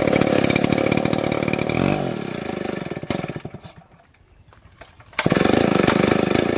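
STIHL MS720 chainsaw running at high revs. About two seconds in the revs fall away and it drops to a quiet idle, then it comes back suddenly at full throttle about five seconds in.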